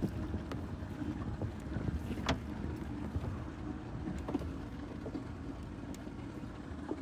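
Motorboat engine running steadily, with wind on the microphone and a few faint knocks, one sharper tick about two seconds in.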